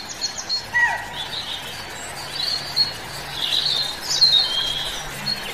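Several wild birds chirping and calling in the forest: short high whistles and twittering notes, with a falling call about a second in and a busier run of calls around the middle.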